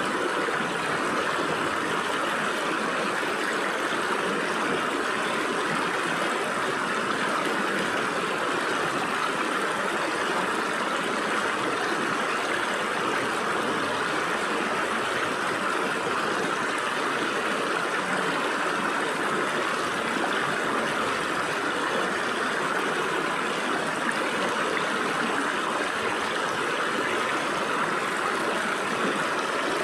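Stream water flowing through gaps between rocks: a steady, unbroken rush and gurgle that does not change.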